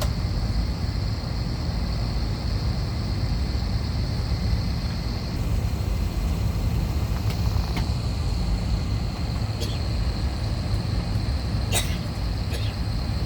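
Steady cabin noise inside an Airbus A321 waiting before departure: a low hum with ventilation hiss. A few light clicks in the second half.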